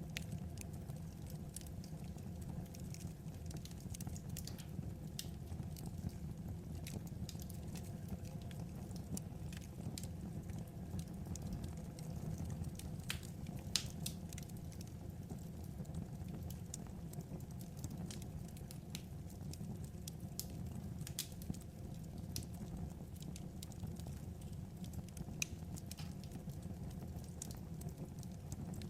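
Wood fire crackling: a steady low rumble of burning logs with irregular sharp pops and snaps throughout, one louder pop about halfway through.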